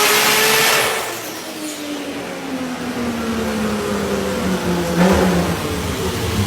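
Car engine under load with a loud rushing noise, then the engine note falls steadily in pitch over several seconds as the car slows off throttle. A short louder burst comes about five seconds in.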